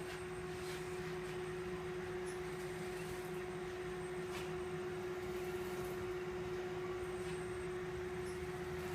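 Magnet-powered piston engine and generator running, giving a steady humming tone with a few faint clicks now and then.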